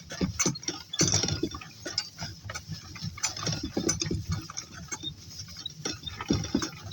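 Irregular rustling and knocking of footsteps walking through grass and plantings.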